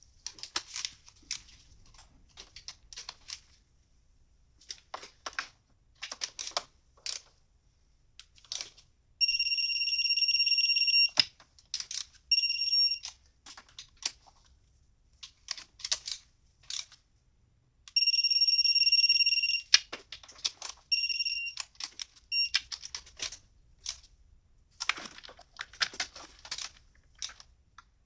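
Electronic torque wrench buzzing as the bolts reach the set torque: two long beeps of about two seconds and several shorter ones, with ratchet and tool clicks in between.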